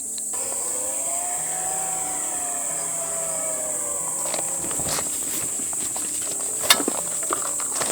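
Crickets chirring steadily. Over them, a long pitched tone rises and then falls across the first four seconds, and several sharp knocks and taps follow in the second half.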